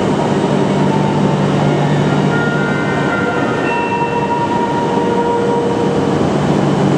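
Tohoku Shinkansen train running alongside the platform: a steady rumble with a low hum, and a few thin high tones that come and go in the middle.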